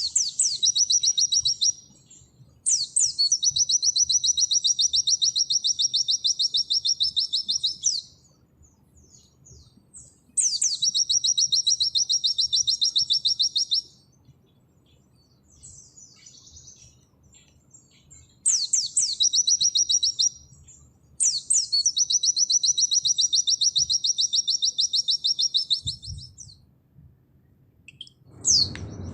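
White-eye (pleci) singing its rapid 'nembak' song: a series of long, very fast, high trills, the longest about five seconds, each opening with a few quick down-sliding notes, with short pauses between bouts.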